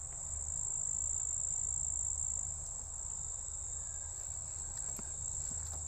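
Crickets in a field chorus: one steady, high-pitched, unbroken trill, with a low rumble of wind on the microphone beneath it.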